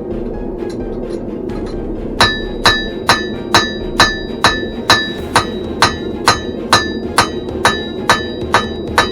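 Blacksmith's hand hammer striking hot steel on an anvil, starting about two seconds in and going at a steady pace of about two blows a second, each blow ringing. Under it the forge runs with a steady roar.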